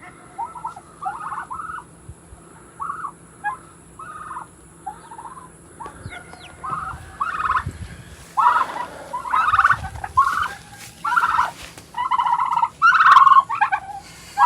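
Domestic turkeys gobbling over and over, short rattling calls that come scattered at first and grow louder and closer together in the second half.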